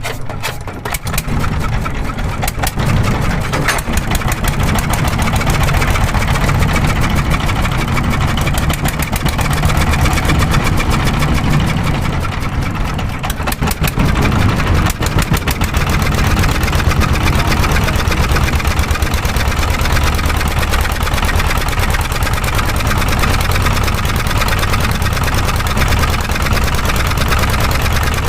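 Small engine running steadily with a fast, even firing beat, picking up in loudness just after the start.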